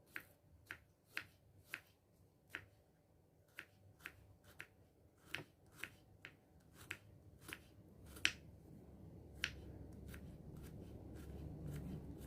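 A kitchen knife slicing through small vegetables and tapping on a cutting board, about twenty sharp, uneven taps at roughly two a second. A low hum grows louder in the second half.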